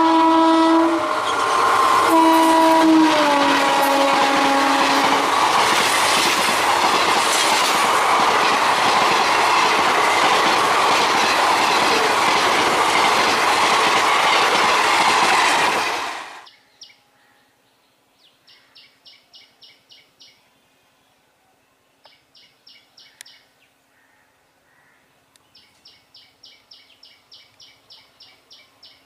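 An Indian Railways WAP-4 electric locomotive's horn sounding as it runs past, its pitch stepping down as it goes by, followed by the loud, steady noise of the express coaches' wheels going past on the track. About sixteen seconds in the train noise cuts off suddenly, leaving quiet with short rhythmic runs of high chirping.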